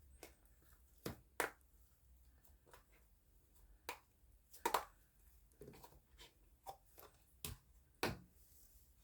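Hands poking and pressing a purple slime, giving short, sharp clicks and pops at irregular intervals, about a dozen in all.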